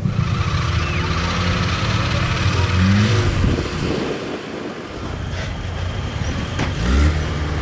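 Off-road 4x4's engine running and revving, rising in pitch twice: about three seconds in and again near the end.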